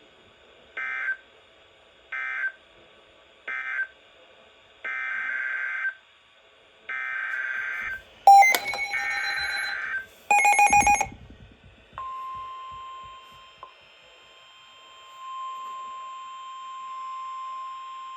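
NOAA Weather Radio alert signalling between two warnings: three short, buzzy digital data bursts and then longer ones (the SAME code that ends one message and heads the next), a brief flurry of sharp electronic beeps, then from about twelve seconds in the steady, single-pitch weather alert tone.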